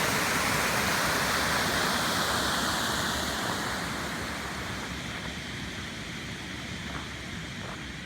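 Waterfall rushing steadily. It grows gradually fainter through the second half.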